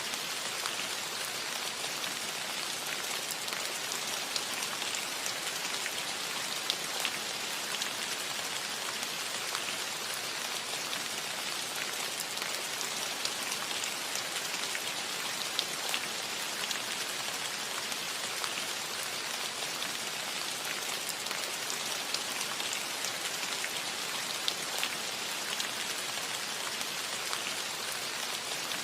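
Steady rain falling on a metal roof: an even patter with many small, sharp drop ticks scattered through it.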